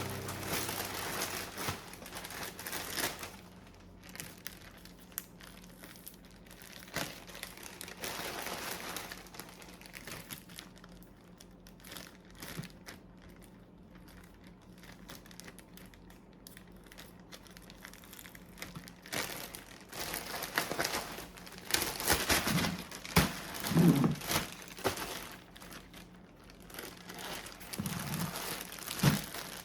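Bag crinkling and rustling as it is handled, in irregular bursts that get busier and louder in the last third, with a few soft knocks.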